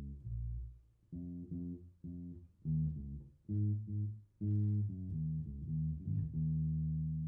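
Electric bass guitar tuned down a half step, played through a Fender Rumble 100 V3 bass combo amp: a line of separately plucked low notes, roughly two a second, ending with one long note left to ring out.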